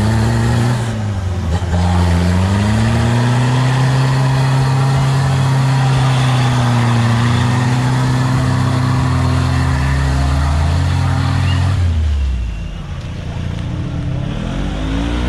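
Off-road 4x4 engine revving hard and held at high, fairly steady revs under load while a vehicle is pulled out of deep mud. The revs dip and climb again about a second in. They fall away near the end, then an engine revs up once more.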